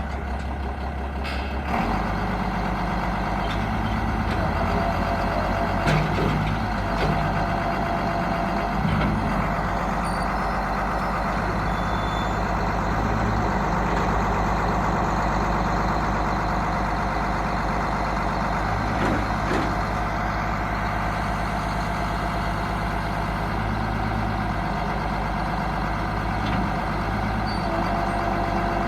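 1998 Case IH 7120 Magnum tractor's six-cylinder diesel engine running steadily. Its note shifts about two seconds in.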